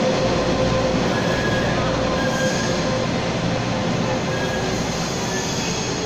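Taiwan Railways local express train rolling to a stop at a station platform. Steady wheel and running noise, with thin brake or wheel squeal tones, eases slightly as it slows.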